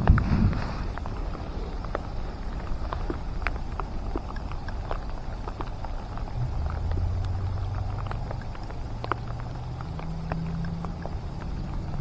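Rain falling, drops tapping irregularly and sharply close to the microphone over a low rumble. About halfway in, a steady low hum comes in and steps up in pitch near the end.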